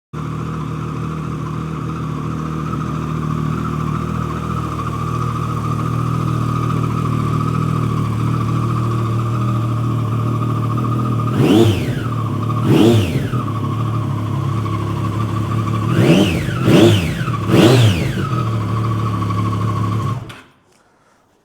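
2015 Triumph Street Triple 675R's three-cylinder engine idling steadily, then blipped five times, the revs rising and falling quickly each time, before it cuts off suddenly near the end.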